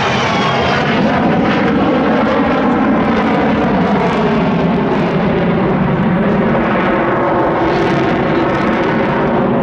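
Aircraft engine running steadily and loud, a continuous drone with several held tones.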